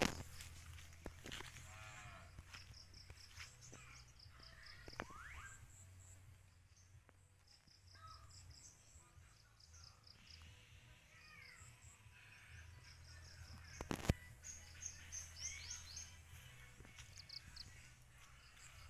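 Faint outdoor farm ambience: birds chirping repeatedly in short high notes with a few rising calls, over a low rumble. There is one sharp knock about fourteen seconds in.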